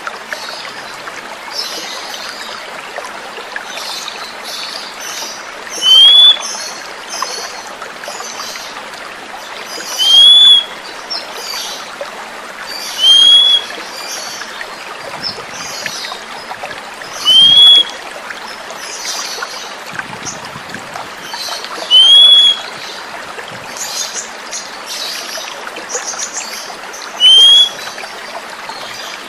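Water running steadily, with softer bird chirping throughout. Over it comes a loud, short whistled call that rises and then falls, repeated six times a few seconds apart: an Oriental magpie-robin (kacer) lure call.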